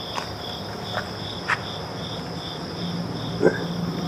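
Crickets chirping: a steady high trill with a pulse repeating about twice a second, broken by a few short sharper chirps and a brief louder sound about three and a half seconds in.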